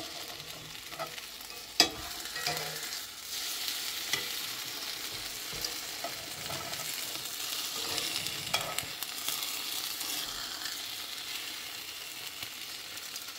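French toast sizzling as it fries in butter in a cast iron skillet, a steady high hiss. Metal tongs click against the pan as the slices are turned, with the sharpest click about two seconds in.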